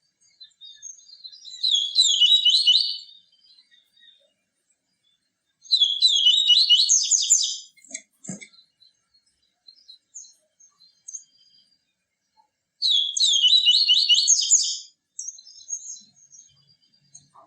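Papa-capim (yellow-bellied seedeater) singing: three songs of about two seconds each, every one a rapid run of high notes, with short scattered chips in the pauses. A brief low knock comes about eight seconds in.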